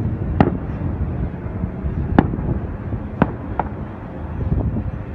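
Aerial fireworks shells bursting: four sharp, irregularly spaced bangs and a few fainter pops near the end, over a steady low rumble.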